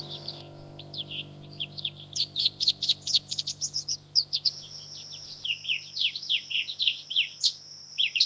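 Many small songbirds chirping in quick, overlapping calls, with a steady high thin tone joining about halfway through. A low sustained tone fades slowly underneath.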